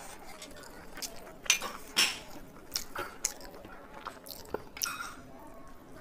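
Close-miked chewing: a person eating with wet mouth smacks and short sharp clicks, the loudest two about a second and a half and two seconds in.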